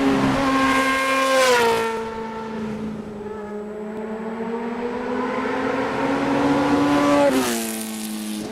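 Motorcycle engine pulling under steady throttle, its pitch climbing slowly, with two sharp drops in pitch about a second and a half in and near the end as it shifts up a gear.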